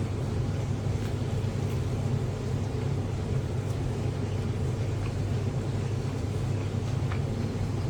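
A steady low mechanical hum, with a few faint, short clicks scattered through it.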